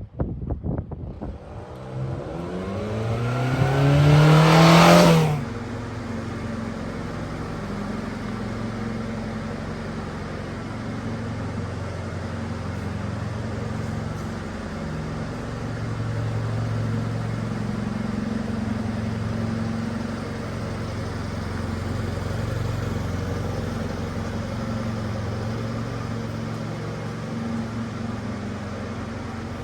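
1997 Subaru Sambar kei truck's 660 cc four-cylinder engine revving up over about three seconds, dropping back sharply to idle about five seconds in, then idling steadily.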